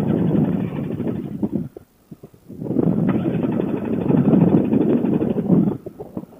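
Paramotor's two-stroke engine being cranked by its starter in two attempts, one ending a little under 2 seconds in and a longer one of about three seconds, without catching: the engine won't fire because the spark plug boot has come loose.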